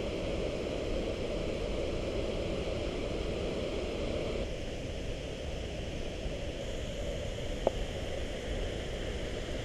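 Steady rush of falling water from Cane Creek Falls, a waterfall.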